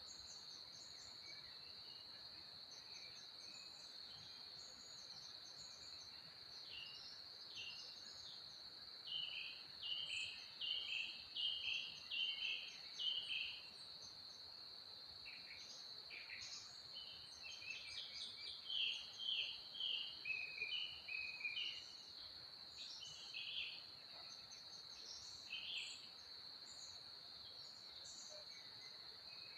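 A steady, high-pitched insect trill runs throughout, with a songbird singing phrases of quick short notes over it from about 7 to 14 seconds in and again from about 17 to 26 seconds. No bee buzz is heard.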